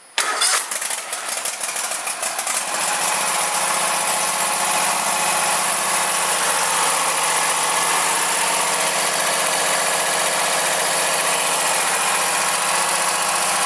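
Craftsman GTS5000 lawn tractor engine cold-started on the key with the choke on: it fires almost at once, runs unevenly for about two seconds, then settles into a steady run. It has just had a tune-up with a new spark plug, oil and oil filter.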